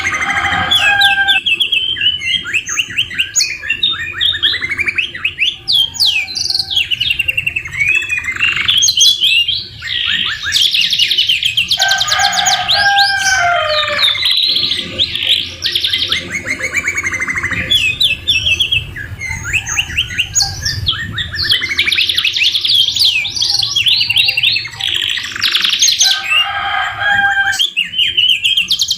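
Domestic canaries singing without a break, in fast rolling trills and rapid sweeping phrases, several singing together. Their song is filled with copied white-rumped shama (murai batu) phrases, including a few lower whistled notes about halfway through.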